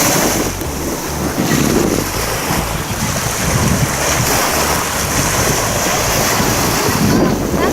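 Wind buffeting the microphone on a moving cruise boat at sea, over the steady rush of water.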